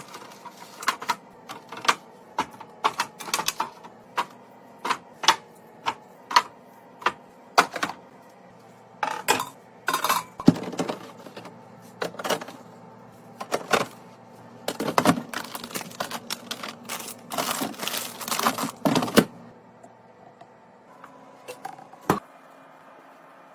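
A long run of sharp clicks and knocks from hard containers and packaging being handled and set down, as in restocking a fridge. They come one to several a second, stop about four seconds before the end, with one last click shortly after.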